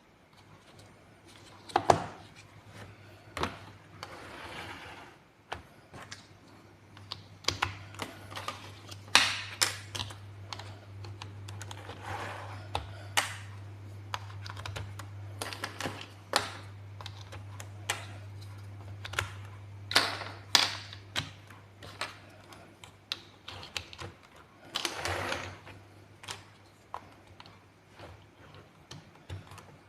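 Plastic building blocks being handled and pressed together: irregular sharp clicks and clatters, with a few brief rustling stretches, over a low steady hum through most of it.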